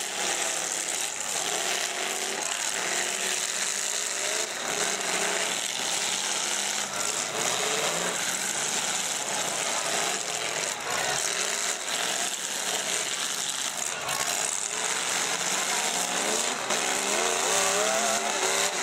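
Engines of several full-size demolition derby cars revving and running hard, their pitch rising and falling as they ram one another. A few short metal-on-metal crunches of the cars colliding stand out.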